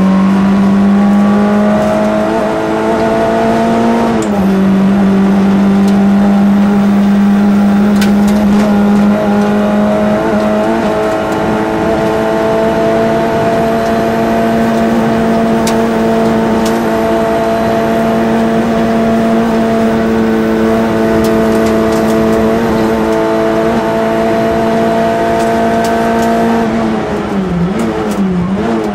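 Citroën AX GT rally car's four-cylinder engine heard from inside the cabin, running hard at high revs. About four seconds in, the pitch drops sharply at a gear change, then holds a steady, slowly rising note for over twenty seconds. Near the end the engine note drops and wavers.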